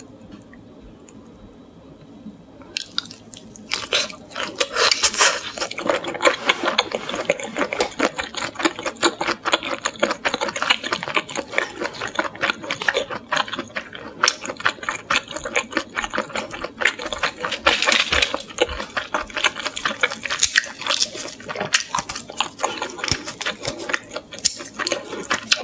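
Close-miked wet chewing of a salt-grilled shrimp dipped in butter sauce: a dense run of small smacking clicks and squishes that begins about three seconds in.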